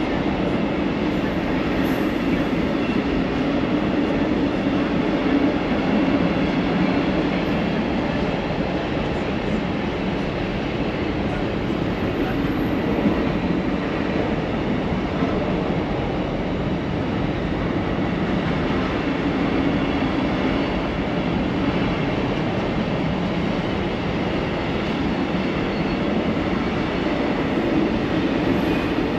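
Train passing close by, a steady, continuous rumble of wheels on the rails.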